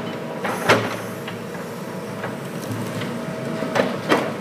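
An engine running steadily, with a few sharp knocks: the loudest about two-thirds of a second in and two close together near the end.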